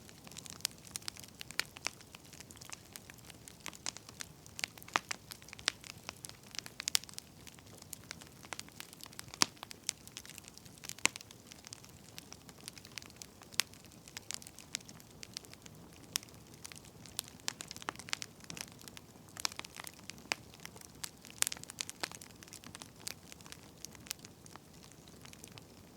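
Wood fire crackling: irregular sharp pops and snaps from burning firewood over a soft, low rustling hiss.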